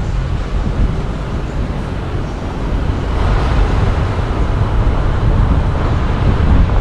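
Car driving along a town street: steady road noise with a low rumble, growing a little louder about three seconds in.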